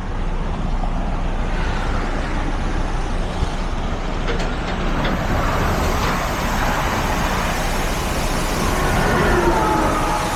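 Heavy diesel truck engine running steadily close by, with a faint whine near the end.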